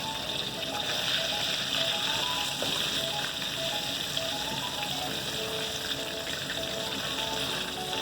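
Flour-coated chicken pieces deep-frying in hot oil, a steady sizzle, under soft background music with a light melody.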